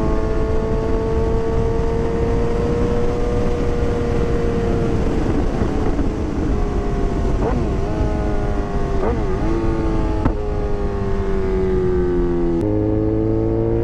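Suzuki GSX-R 750 inline-four with a Black Widow full exhaust, heard while riding at a steady cruise. The note sinks slowly over the second half, with a few brief wobbles in pitch and a sudden step down near the end, over a low rumble of wind noise.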